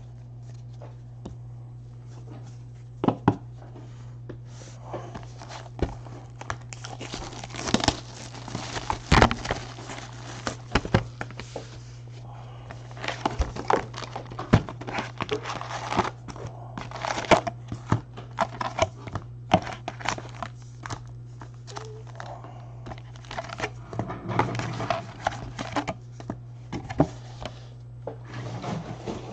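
Foil wrappers of trading card packs being torn open and crumpled, with irregular crinkling and crackling and the rustle of cards being handled. A steady low hum runs underneath.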